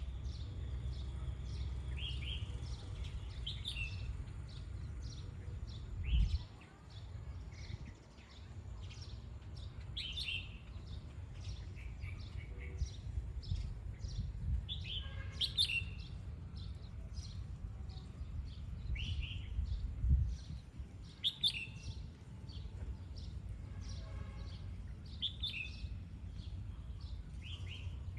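Red-whiskered bulbul calling, short bright chirps repeated every second or two, over a low rumble with two thumps, about six and twenty seconds in.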